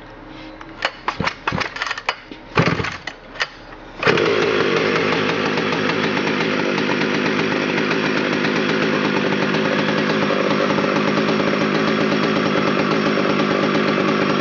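A few sharp clicks and knocks, then, about four seconds in, the McCulloch Super Pro 125's 123 cc engine is suddenly running loud and steady to the end.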